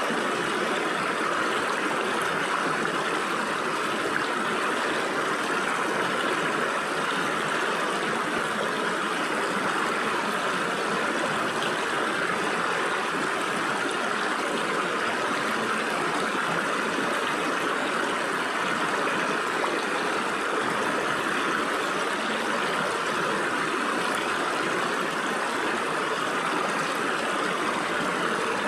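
Stream water flowing and splashing through gaps between rocks, a steady, even rush.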